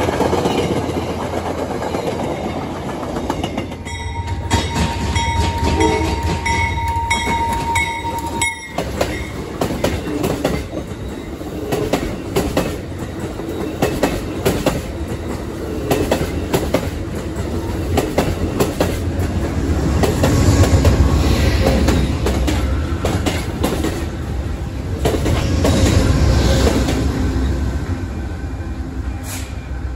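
Passenger trains passing close by: a steady rumble with rapid clicking of steel wheels over rail joints, swelling in loudness twice in the second half.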